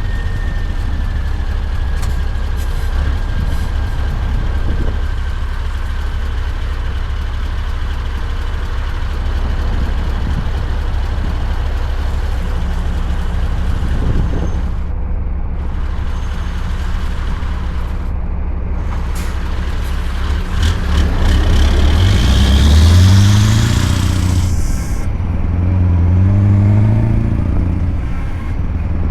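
Scania R580's V8 with a straight-piped exhaust, running steadily at low revs. About twenty seconds in it pulls away, the revs rising and dropping again through several gear changes. A rising whistle and a hiss come during the first pull.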